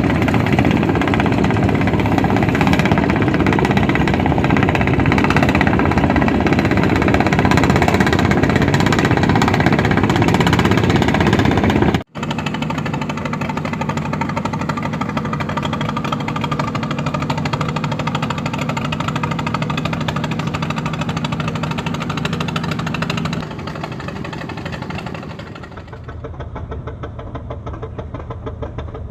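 Engines of traditional fishing boats running steadily as the boats pass. About twelve seconds in, the sound cuts off sharply for a moment and a different boat engine takes over, with a steadier low hum. That engine grows quieter near the end.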